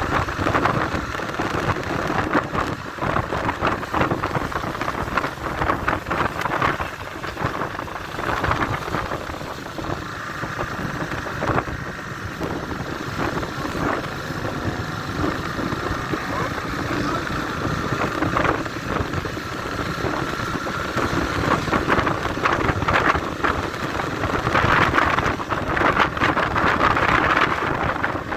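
Motorcycle riding at speed: engine running under way, mostly buried under heavy wind buffeting on the microphone, which swells toward the end.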